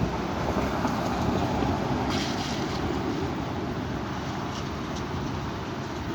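Strong wind blowing and buffeting the microphone in a steady, rumbling rush, with a brief sharper hiss of a gust about two seconds in.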